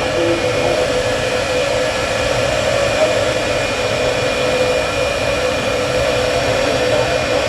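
Jet engine of a jet-powered drag truck running steadily: a loud, even rush of air with steady whining tones over it.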